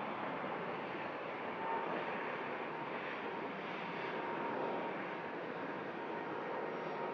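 Jet airliner engines running: a steady rushing noise with a thin, even whine.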